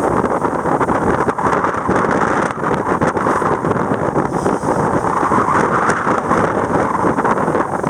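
Strong wind buffeting the microphone aboard a sailboat under way, a loud steady rushing noise that flutters without a break.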